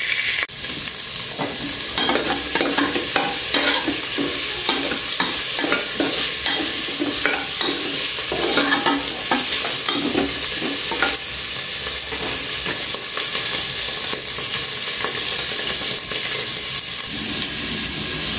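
Pork pieces sizzling in hot oil in an aluminium pot, with a metal spoon scraping and knocking against the pot in irregular strokes as they are stirred through the first half. After that the sizzling goes on alone.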